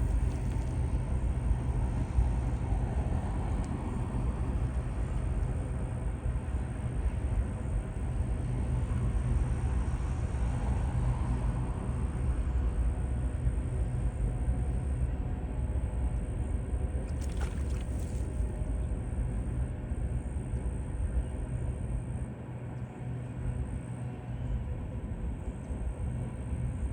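Steady low rumble with a brief hiss about seventeen seconds in.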